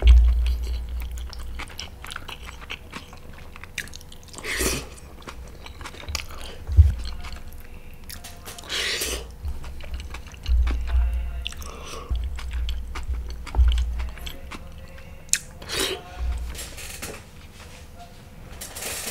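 A person chewing and biting egg masala with gravy close to the microphone: wet mouth sounds and small clicks over low jaw thumps, with a few louder smacks of the mouth.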